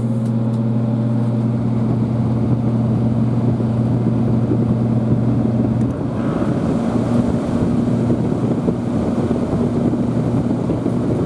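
Window air conditioner running: a steady low hum with the rush of its fan air. About six seconds in the sound changes, the lowest hum dropping away and the airflow noise growing coarser. Loud, reading about 79 to 82 dB on a sound meter.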